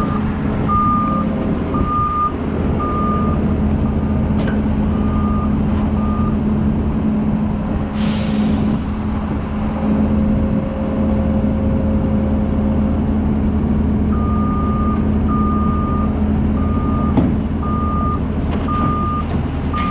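Kobelco 210 excavator's diesel engine running steadily while its travel alarm beeps about once a second as the machine tracks onto a trailer. The beeping stops for several seconds in the middle and starts again, and a short hiss of air sounds about eight seconds in.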